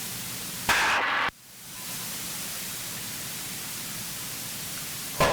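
Steady hiss of light-aircraft cockpit noise as carried through the intercom audio feed. About a second in there is a short, louder burst that cuts off suddenly, and the hiss then fades back up to its steady level.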